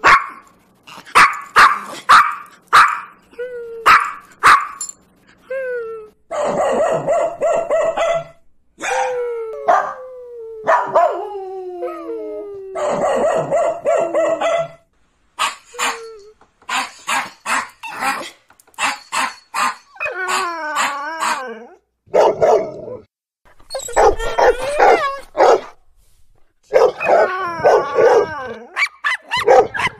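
Dogs barking in quick runs of short sharp barks, broken up by longer drawn-out calls, some sliding down in pitch and others wavering, like howls.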